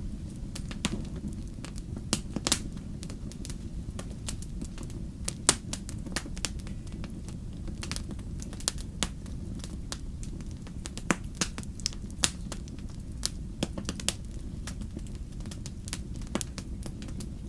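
Wood fire burning in a fireplace: a steady low rumble of flames under frequent irregular crackles and sharp pops, a few of them noticeably louder.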